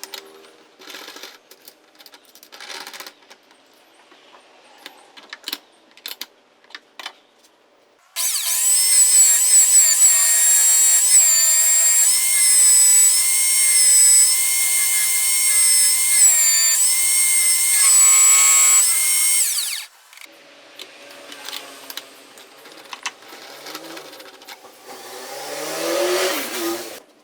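Electric drill running at steady high speed for about twelve seconds, a whine that wavers slightly in pitch, then stops abruptly. Scattered knocks and clicks of handling come before it, and quieter rubbing noise with a brief rising tone follows.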